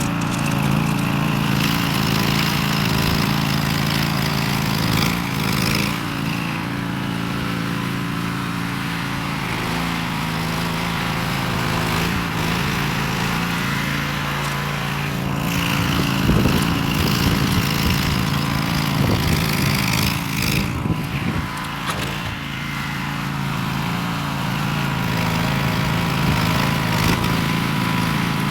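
Small gasoline engine of a rototiller running continuously, its note shifting now and then.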